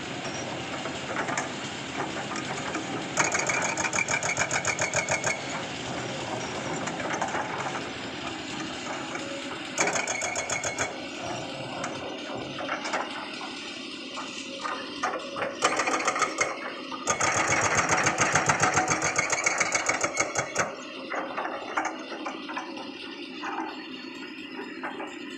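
CAT excavator's diesel engine running under load while working rock, with a rapid, even pulsing and several louder stretches lasting a few seconds each.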